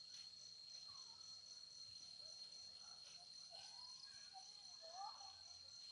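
Faint insect chorus: a steady high-pitched buzz with a pulsing trill at about four pulses a second. A few faint bird calls come through near the middle.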